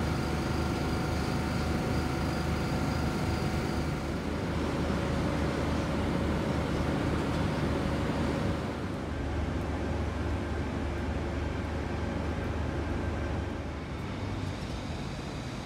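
Steady mechanical drone and low hum from a passenger train standing at a platform, with a few steady whining tones above it. The sound shifts abruptly about four seconds in, again near nine seconds, and once more about thirteen seconds in.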